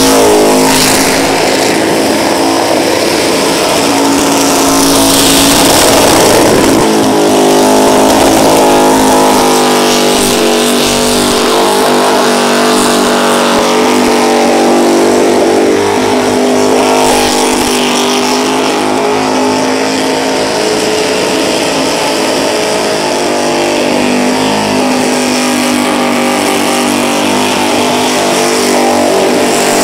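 Supercharged 360-cubic-inch V8 of an AP5 Valiant held at high revs through a burnout, its rear tyres spinning, the pitch wavering up and down.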